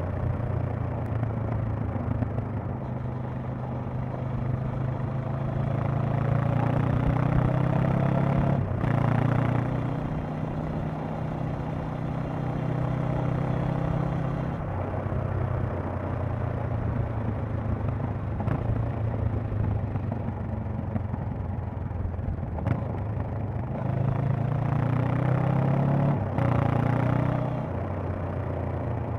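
Honda CB500X parallel-twin engine and exhaust under way, climbing in pitch as the bike accelerates. The pitch drops briefly about nine seconds in and again near the end, as at gear changes, and it holds steadier at cruise in between.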